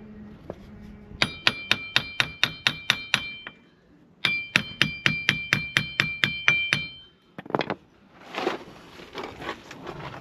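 A hammer strikes a seized, rusted steel part again and again, about four or five blows a second, each with a bright metallic ring. There are two runs of blows with a short pause between them, then a brief scrape and some rustling handling noise near the end.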